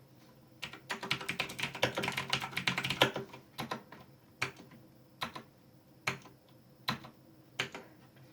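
Razer BlackWidow Ultimate 2016 mechanical keyboard keys clicking: a quick flurry of keystrokes for about two seconds, then single key presses a little under a second apart.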